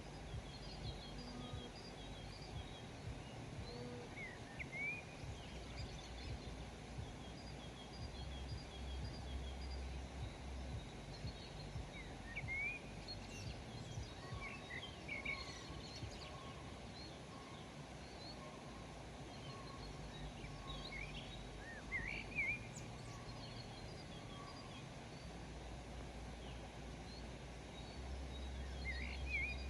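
Wild birds chirping and calling in a rural outdoor soundscape: scattered short, high notes that slide quickly in pitch, with a faint repeated note in the background. They sit over a steady outdoor hiss and a low rumble that comes and goes.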